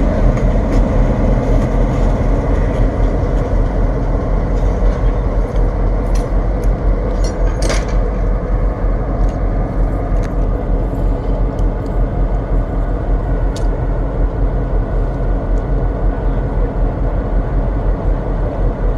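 Diesel freight train with a steady, heavy rumble of engine and wheels, and a few short sharp metallic clanks, the loudest nearly eight seconds in.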